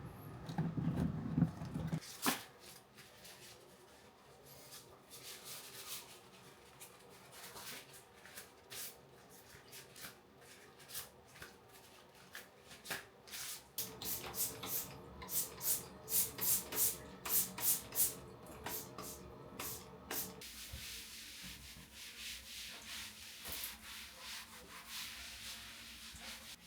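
Scrubbing during cleaning: repeated back-and-forth rubbing strokes, quickest and loudest in the middle stretch at about two to three strokes a second. A brief low handling noise comes in the first two seconds.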